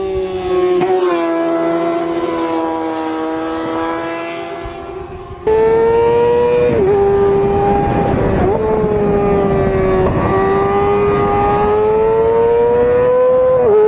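Engine held at high revs, a steady high-pitched note that dips briefly and climbs back a few times. The sound jumps abruptly to a louder, higher note about five and a half seconds in.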